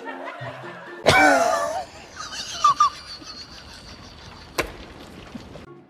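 A sudden loud burst of laughter about a second in, over background music, followed by a sharp click later on.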